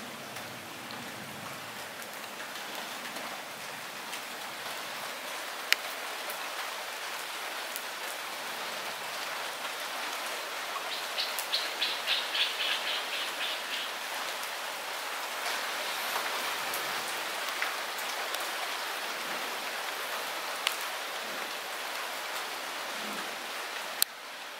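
Light rain falling steadily, a constant hiss with scattered sharper drop ticks. About halfway through comes a short rapid ticking trill.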